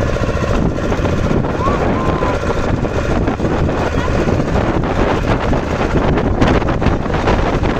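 Motorboat engine running steadily with wind buffeting the microphone. About two seconds in come two short, high calls from gulls.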